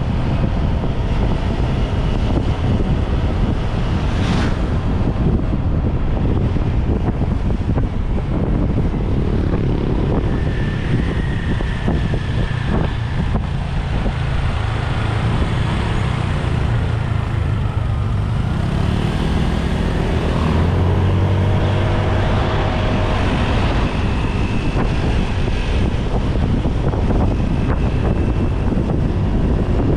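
Motorbike ride: wind rumbling on the microphone over the engine and road noise. A rising engine note comes through about two-thirds of the way in.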